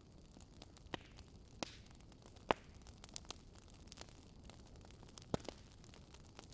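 Wood fire burning in a fireplace: a faint low hiss with irregular sharp crackles and pops, the loudest pop about two and a half seconds in and another near the five-second mark.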